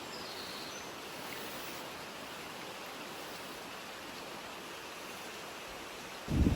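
Steady rushing mountain ambience with a few faint, high bird chirps in the first second. Near the end a sudden gust of wind hits the microphone with loud, low buffeting.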